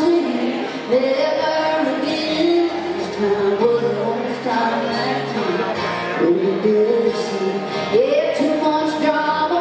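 Live country band playing with a woman singing the lead vocal, her sung melody gliding over the steady full band.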